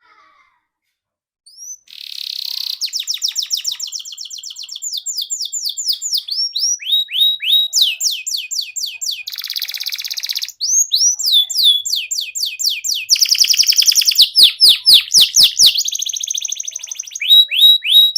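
Canary singing a long song of fast trills: runs of quick repeated notes, each run switching to a new note type, starting about a second and a half in.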